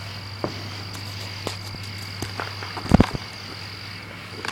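Crickets trilling steadily, with scattered small clicks and a short low thump about three seconds in.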